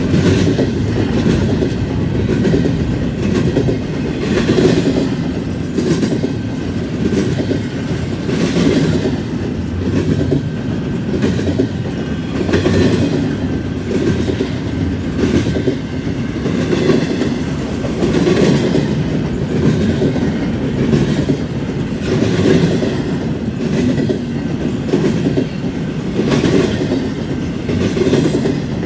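Double-stack intermodal well cars of a freight train rolling past: a steady rumble of steel wheels on rail, with repeated wheel clacks every second or two.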